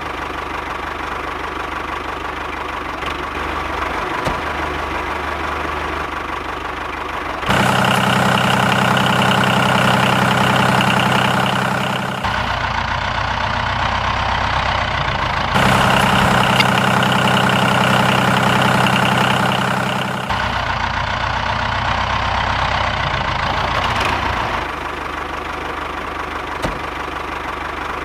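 Engine running steadily at idle. Twice, for about five seconds each, it gets louder, with a stronger, steadier hum.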